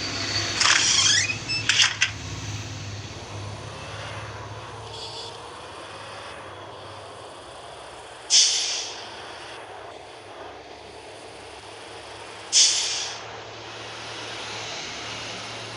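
Heavy truck engine running steadily, with short, sharp hisses of air that fade quickly: two close together near the start, then one about eight seconds in and another about four seconds later, typical of air brakes releasing.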